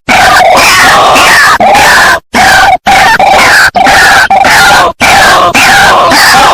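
White-breasted waterhens' loud, harsh, repeated croaking calls in a near-continuous overlapping chorus from a lure recording, broken by a few brief silent gaps where the track is spliced.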